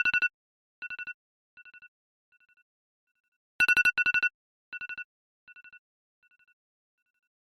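iPhone ringtone: a burst of rapid trilling beeps on two high tones, followed by four fainter repeats that die away like echoes. The cycle plays twice, about three and a half seconds apart.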